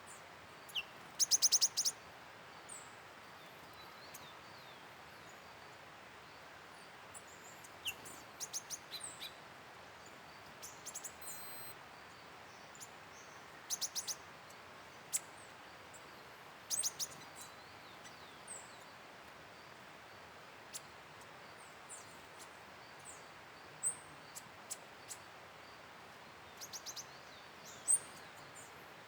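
Wild forest birds calling: scattered short, high-pitched chirps and quick rapid-fire trills, in clusters a few seconds apart, over a steady faint hiss.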